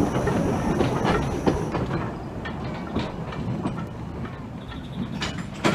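Narrow-gauge train's wheels clicking over rail joints, fading steadily as it moves away. A thin high whine cuts off about two seconds in, and a sharp knock comes near the end.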